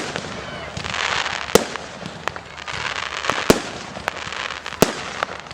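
Aerial firework shells bursting in a display: four sharp, loud bangs a second or two apart, with smaller cracks and crackle between them.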